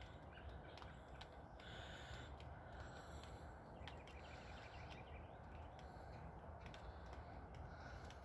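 Faint outdoor ambience with distant birds calling off and on, over a low steady background rumble and a few light clicks.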